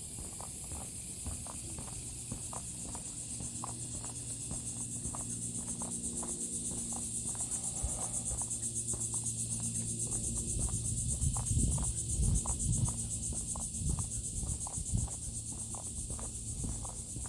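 Steady, high, pulsing insect chorus (crickets or similar) over footsteps on a wooden boardwalk at about two steps a second, with a few low rumbles about two-thirds of the way through.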